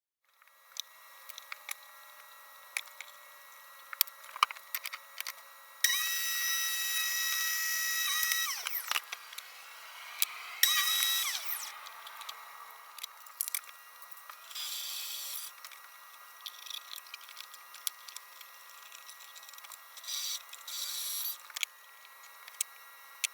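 A small electric power tool motor is run twice, with a steady high whine for about two seconds and then for about one second. Each time it spins down with a falling pitch. Clicks and handling knocks come before, between and after the runs.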